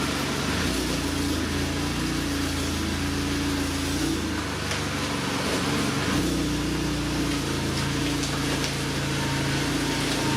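VW MK7 GTI's turbocharged 2.0-litre four-cylinder running with a catless 3-inch downpipe while driving: a steady engine and exhaust drone whose pitch shifts a few times.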